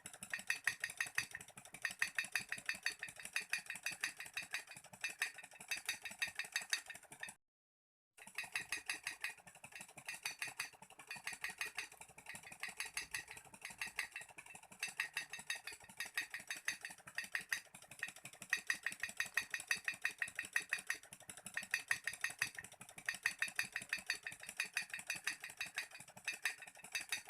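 Small model Stirling engine running, giving a fast, even clicking rattle that swells and eases in loudness. The sound cuts out completely for under a second about seven seconds in.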